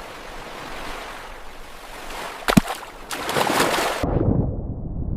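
Sea waves washing, then a sharp splash about two and a half seconds in as a phone drops into the water. At about four seconds the bright sound cuts off suddenly, leaving a muffled low underwater rumble as the phone sinks.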